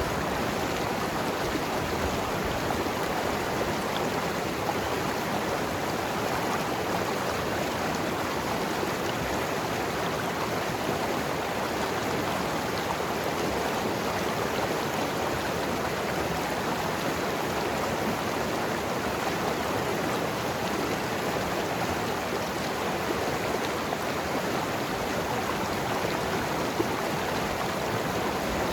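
Mountain river flowing and gurgling over rocks: a steady, even rush of water.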